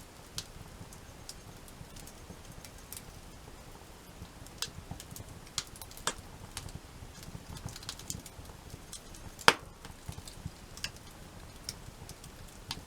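Wood campfire crackling, with irregular snaps and pops over a low steady rush, and one sharp, loud pop about nine and a half seconds in.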